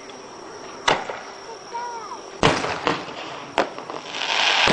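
Aerial fireworks shells bursting: three sharp booms, the middle one the loudest, then a dense crackling as crackle stars go off near the end.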